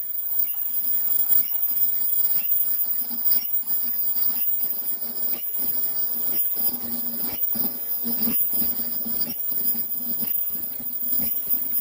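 Automatic duckbill 2D face mask making machine running at production speed: a regular mechanical clack about once a second, one per mask cycle at about 66 a minute, over a steady high-pitched hum and whine.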